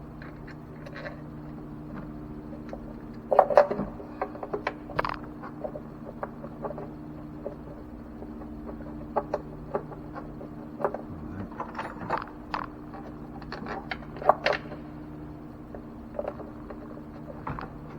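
Scattered light clicks, taps and scrapes of metal parts being handled as a throttle body is pushed into place on a 2012 Nissan Versa's 1.6 intake and its bolts are started, with a few sharper knocks among them. A steady low hum underneath.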